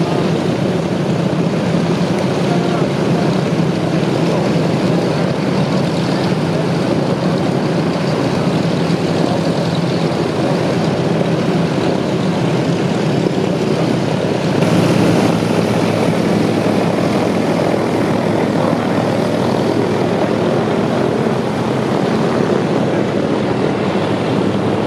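Radial piston engines of DC-3 / C-47 Dakota propeller aircraft running steadily, with a shift in the engine sound about fifteen seconds in.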